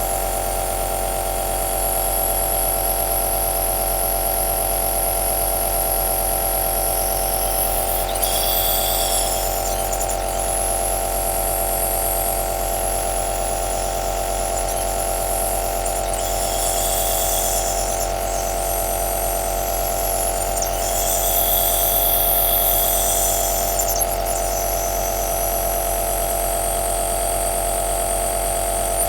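Electric compressor nebulizer (aerosol machine) running continuously: a steady motor hum with a hiss of air on top. The hiss shifts a few times.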